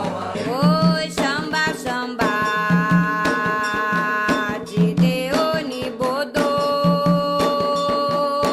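Candomblé Ketu song for Xangô: a voice holds long notes that slide up into pitch, over a steady beat of hand drums.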